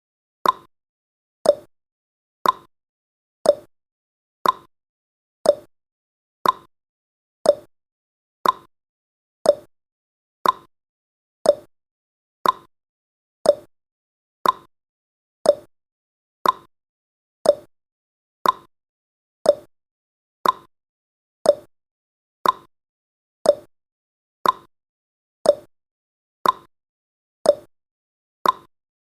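A countdown timer's tick sound effect: one short, sharp click every second, evenly spaced and the same each time.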